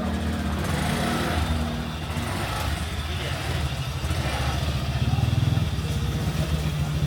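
A motor vehicle's engine running close by in a busy street, its low rumble getting louder in the second half, with people talking in the background.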